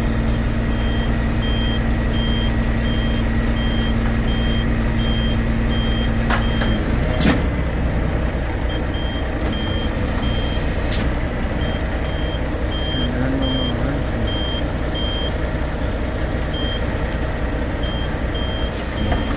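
Volvo FM 460 truck's diesel engine running steadily while a reversing alarm beeps about three times every two seconds, pausing now and then. Two sharp clicks come about a third of the way in and just past halfway.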